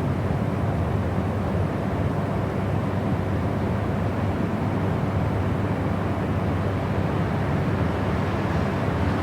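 Continuous, unchanging noise track for study or sleep: an even rush with its weight in the low end, heard as a deep rumble-like hiss.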